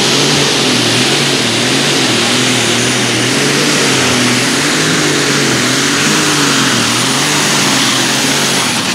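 Turbocharged light super stock pulling tractor engine running at high revs during a pull. Its pitch wavers up and down as the load changes, with a steady high whine above it.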